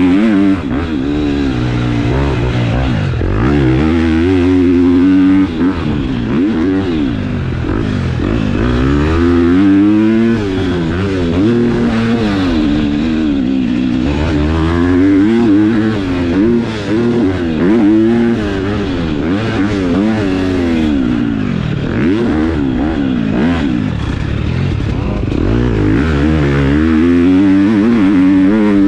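KTM four-stroke motocross bike with an aftermarket exhaust, ridden hard around a track: the engine revs climb and drop off over and over, every couple of seconds, as the rider throttles on and off.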